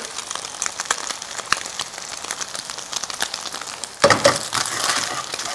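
Ginger and garlic frying in hot oil in a pan, sizzling with fine crackles as they are stirred; the sizzle swells louder about four seconds in.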